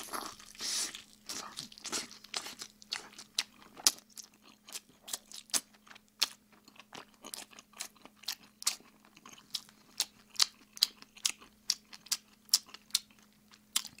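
Close-miked open-mouthed chewing of oven-roasted chicken, a run of wet lip smacks at about two to three a second, with a faint steady hum underneath.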